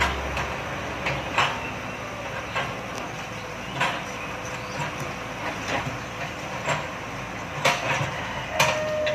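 Excavator working, its engine running steadily under about a dozen irregular sharp knocks. A short steady tone sounds near the end.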